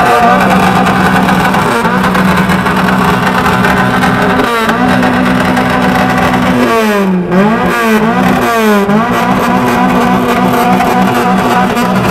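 Car engine revved hard and held at high revs, the throttle let off and blipped back up a few times about seven seconds in, then held high again with a fast stutter.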